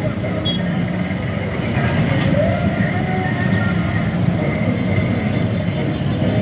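Dense road traffic with vehicle engines running steadily.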